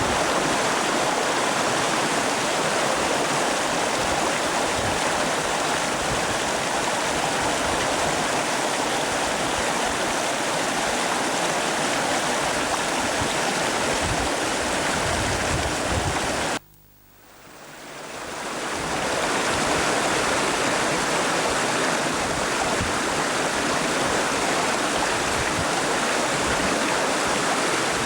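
Rushing river water, a steady loud rush. About two-thirds of the way through it cuts out abruptly and fades back in over a couple of seconds.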